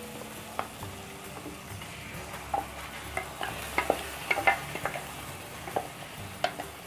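Hot spiced oil sizzling in a kadhai as thick tomato-onion paste is scraped into it from a steel mixer jar with a wooden spatula. Scattered light taps and scrapes of the spatula against the jar and pan.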